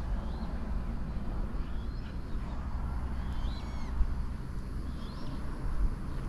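Birds calling with scattered short chirps over a steady low rumble.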